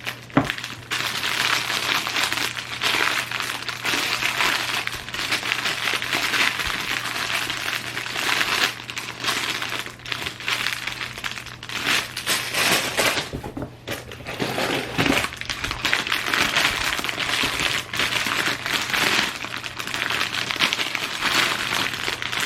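Plastic bags of Lego pieces crinkling and rustling as they are handled and lifted out of the box, with a sharp click about half a second in.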